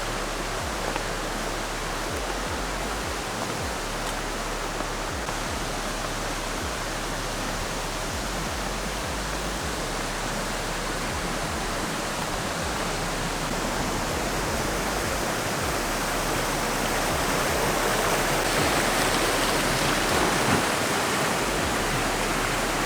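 Waterfall rushing: a steady wash of falling water that grows louder over the last several seconds.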